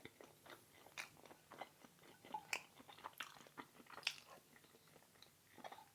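A person chewing food close to the microphone: faint, irregular mouth clicks and small crunches.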